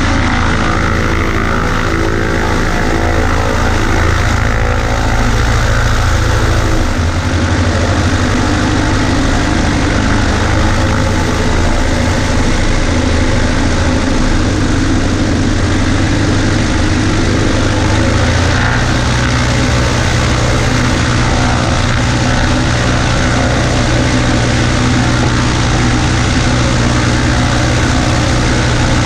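Cessna 140A's small flat-four Continental engine and propeller running steadily, with the engine note shifting about seven seconds in and stepping up slightly in pitch about eighteen seconds in.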